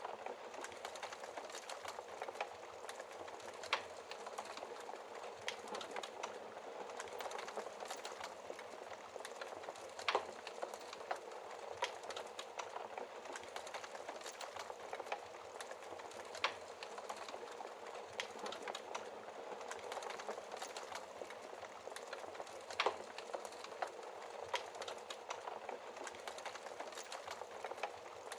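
Wood fire crackling in a fireplace: a steady hiss with irregular sharp pops and snaps, a few louder pops about four, ten, sixteen and twenty-three seconds in.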